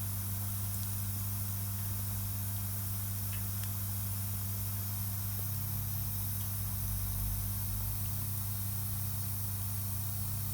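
Campfire burning with a steady hiss and a few faint crackles, over a loud, unchanging low hum.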